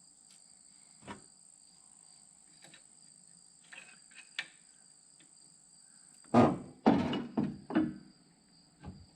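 Tools knocking against the Opel CIH engine's stuck cylinder head as it is worked at to break it loose: a single knock about a second in and a few light clicks, then a quick run of four loud knocks about half a second apart and one more just before the end.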